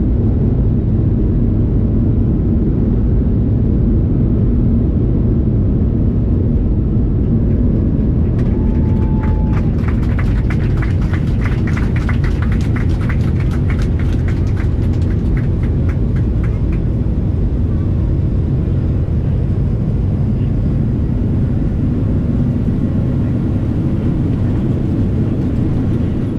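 Steady low rumble of a Boeing 737-800's engines and airframe heard inside the cabin. From about ten to seventeen seconds in, a fast run of clicks rides over it, just after a brief tone.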